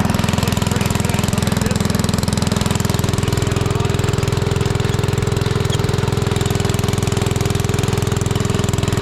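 An engine running steadily with an even, fast firing beat and no change in speed.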